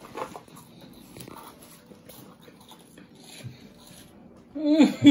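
Faint crunching and chewing of cheese puffs eaten straight off plates. Near the end a person's voice breaks in with a loud, high cry that slides up and down in pitch.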